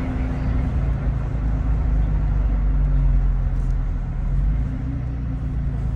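Toyota Tacoma TRD Pro's 3.5-litre V6 running through an MBRP 3-inch cat-back exhaust, a steady deep hum while driving.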